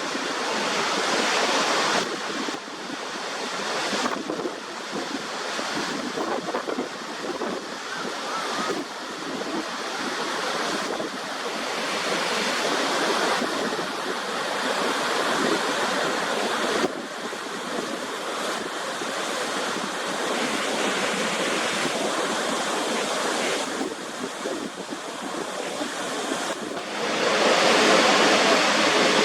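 Rushing water of waterfalls, with wind buffeting the microphone. The sound of the falling water shifts abruptly every few seconds as one clip cuts to the next, and grows louder near the end.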